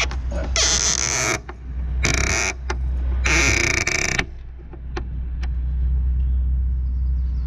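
Three bursts of hissing noise, each under about a second, in the first half, over a steady low hum, with a few light clicks.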